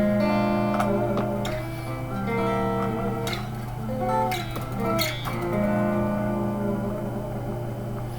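1987 Fender electric guitar, freshly strung with super-light 009–042 strings, played through an old Fernandes amp: picked single notes and chords, some held and ringing, with a few sharp plucks standing out.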